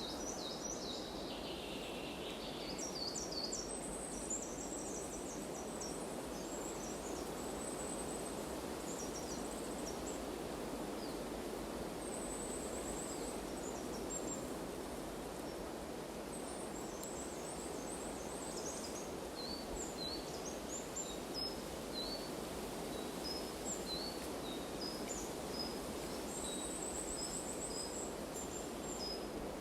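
Forest ambience: several small birds chirping and trilling in short high notes throughout, over a steady rushing background noise.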